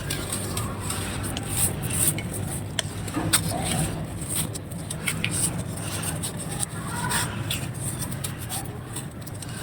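Dry, brittle crumbly material being crushed and crumbled under light pressure, giving an irregular run of crisp crackles and crunches.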